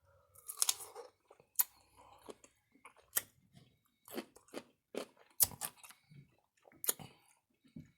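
Close-miked chewing of a crunchy kosher pickle: wet, crackling crunches and mouth smacks at irregular intervals.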